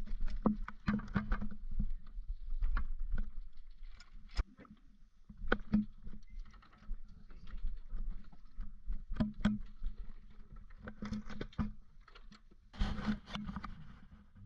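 Irregular knocks and clatters, a dozen or more scattered sharp hits, over a steady low hum; a denser cluster of clatter comes near the end.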